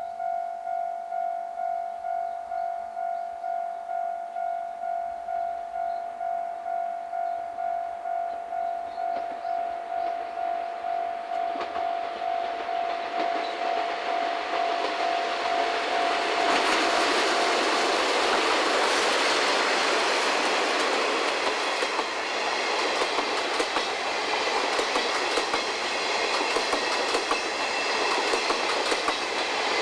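A level-crossing bell rings with a steady pulsing tone, nearly twice a second, while a DD51 diesel-hydraulic locomotive approaches and grows louder. The bell stops about eighteen seconds in as the locomotive and its 12-series passenger coaches run close past, the wheels clicking over the rail joints.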